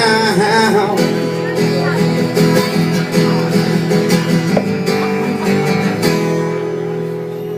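Acoustic guitar strummed, with a held, wavering sung note that ends about a second in. The playing gets quieter near the end.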